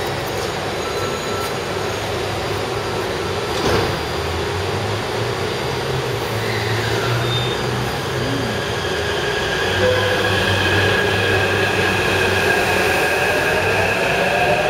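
Taipei Metro 301/371-type train running on the Tamsui line, with steady running noise and a single knock a few seconds in. Near the end, a whine rises in pitch as the train picks up speed.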